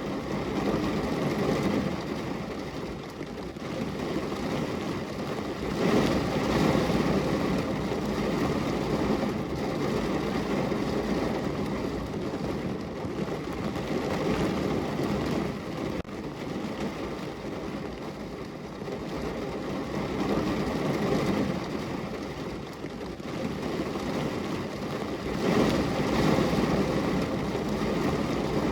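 Heavy rain falling on the roof of a parked car, heard from inside the cabin: a dense, steady patter that swells and eases every few seconds.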